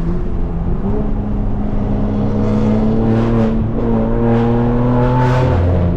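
Straight-piped BMW M4 Competition's twin-turbo inline-six pulling hard up through the revs, its pitch climbing slowly. It breaks off briefly about halfway through as it shifts gear, then climbs again and drops near the end.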